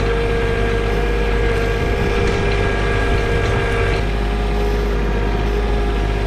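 John Deere 1023e compact tractor's three-cylinder diesel running steadily under load, with a steady whine above the engine note. About four seconds in, the pitch of the whine shifts slightly.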